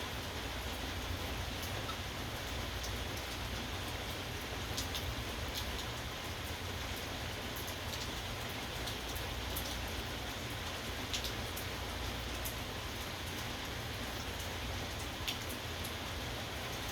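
Steady rainfall, an even hiss of rain with a few sharp drop ticks on a nearby surface, at about five seconds, eleven seconds and near the end.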